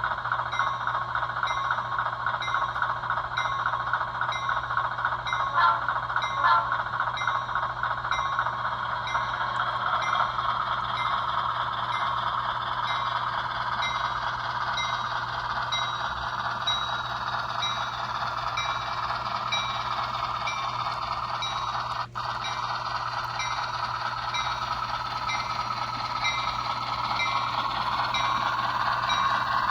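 Sound decoder of an HO scale 44-tonner diesel switcher, playing its diesel engine running with a bell ringing in a steady rhythm. There are two clicks about six seconds in, and the engine sound rises in pitch near the end.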